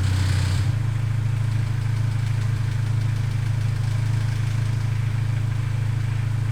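Honda S2000's four-cylinder engine idling steadily, cold, with a worn factory timing chain tensioner; the owner says the tensioner noise gets really bad only when the engine is warm.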